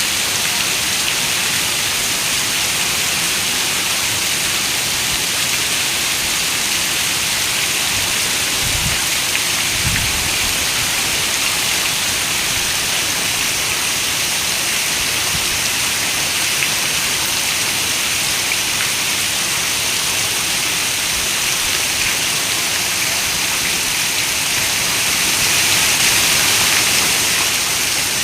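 Steady rain falling against a window, a dense, even hiss. About nine and ten seconds in come two brief low thumps, and the rain swells a little louder near the end.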